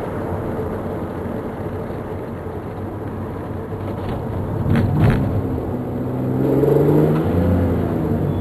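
Turbocharged 2004 Hyundai Tiburon (NGM single-turbo kit) under way, with a steady engine and road drone. About halfway there are two short clicks, then the engine revs up with its pitch rising as the car accelerates, easing off near the end.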